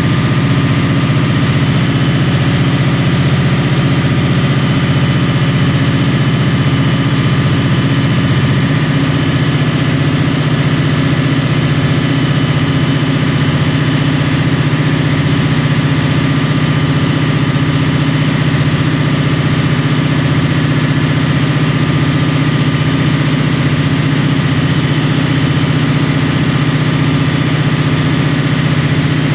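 Unmuffled EMD 645E3C turbocharged V16 diesel locomotive engine running at a steady speed, loud and even, with a slight shift in its note about nine seconds in.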